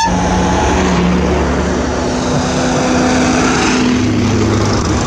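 Mini Mokes' small four-cylinder BMC A-series engines running as the open cars drive past one after another, the engine note shifting as each goes by.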